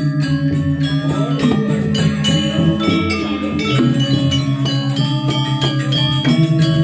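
Balinese gamelan playing: bronze metallophones and gongs struck in quick, dense patterns, with sustained ringing tones.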